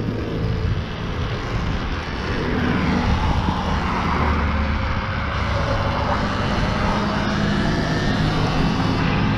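Wind rushing over the microphone while an electric enduro bike is ridden, with a low rumble. A faint motor whine slowly rises and falls in pitch.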